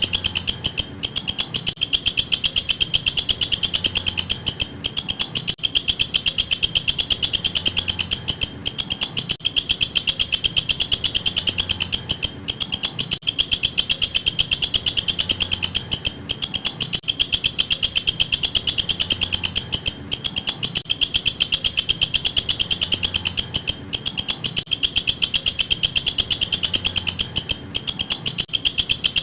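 Walang kecek, a katydid, stridulating: a loud, rapid, buzzy train of clicks, high-pitched, broken by brief pauses every second or few.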